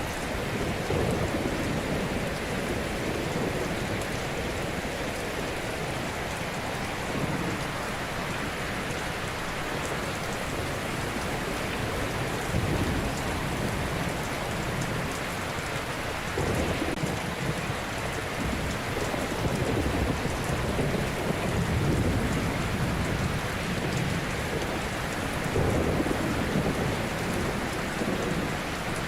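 Ocean surf: a steady hiss of breaking waves, with a deeper rumble swelling up and falling away every few seconds as larger waves break.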